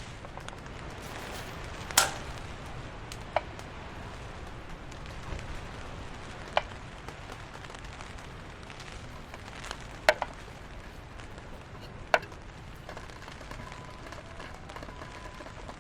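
Steady rain falling, with a handful of sharp taps from heavier drops a few seconds apart.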